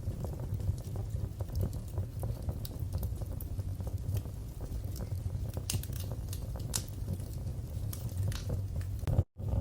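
Wood fire in a fireplace burning with a steady low rumble and scattered sharp crackles and pops. The sound drops out for a split second near the end.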